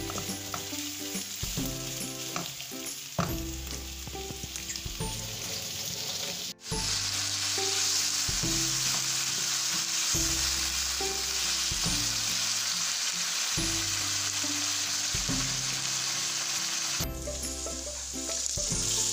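Chicken pieces sizzling as they fry in oil with spices in a non-stick pan, stirred with a wooden spatula. The sizzle is a steady hiss that grows louder after a brief dropout about six and a half seconds in.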